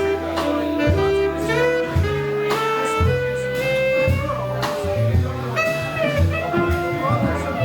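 Live jazz band playing: a melodic horn line of held notes over moving bass notes and drum and cymbal hits.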